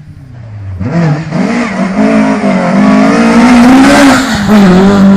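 Rally car engine coming up from faint to very loud, its note rising and falling as the throttle is worked through a drift.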